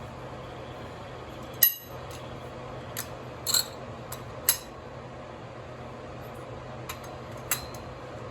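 Sharp metallic clinks of a socket and breaker bar working on the steel connecting-rod cap bolts of a Cummins NH-series diesel: about six scattered clinks, the loudest about a second and a half in, over a steady low hum.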